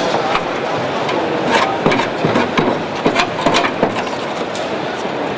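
Workshop noise: irregular knocks and clicks of hand tools on car bodywork over a steady background hubbub.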